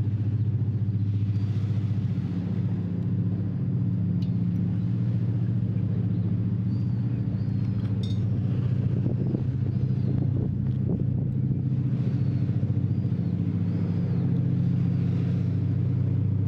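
A steady low motor drone that holds level throughout.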